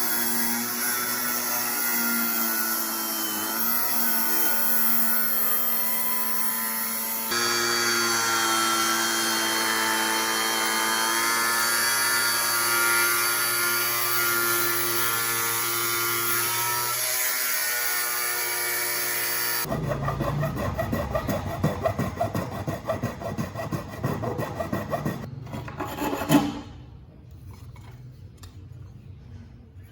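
A power tool running steadily under load, with a high hiss and a held pitch that shifts slightly at a couple of edits. About two-thirds of the way through it gives way to rapid, irregular rubbing strokes of sanding or filing, with a sharp knock near the end.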